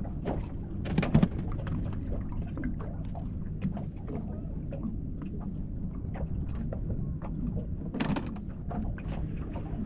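Wind rumbling on the microphone, with scattered knocks and clicks throughout and the strongest knocks about a second in and about eight seconds in.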